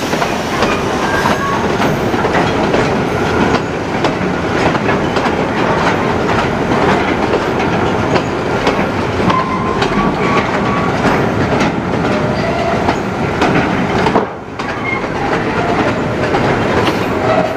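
Container freight wagons rolling past close by: a steady rumble of steel wheels on rail with rapid clacking over the rail joints and a few short squeaks. The noise dips briefly about fourteen seconds in.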